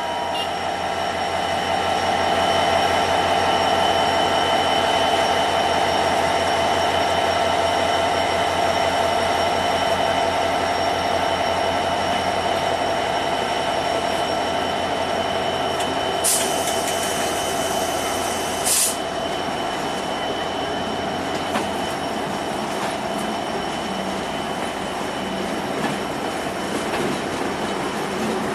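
Diesel locomotive and passenger coaches pulling away, the engine running steadily with a drone and a thin whine over the rumble of the wheels on the rails. Two short hissing bursts come about 16 and 19 seconds in.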